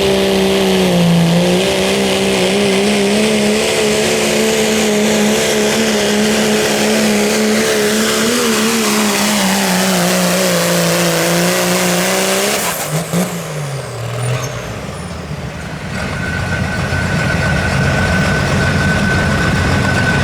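Turbocharged Pro Street diesel pickup pulling a weight sled at full throttle, its engine held at high revs for about twelve seconds. The engine then lets off, its pitch falling away, and a steady high whine carries on near the end.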